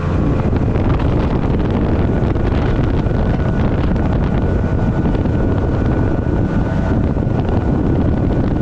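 Heavy wind buffeting the microphone on a speedboat under way, over the steady run of its two-stroke outboard motor with a faint high whine.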